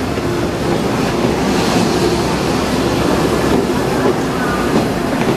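Passenger train running past close along a station platform: the steady noise of its wheels on the rails and its running gear, loud and even throughout.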